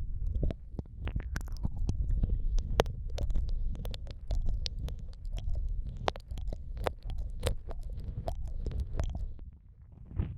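Wet mouth sounds pressed close to the microphone (ASMR ear eating): many quick, irregular clicks and smacks over a continuous low, muffled rumble. The sounds thin out briefly near the end.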